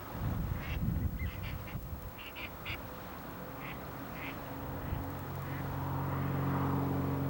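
Ducks quacking in short repeated calls over a low rumble. About five seconds in, a steady engine hum starts and grows louder.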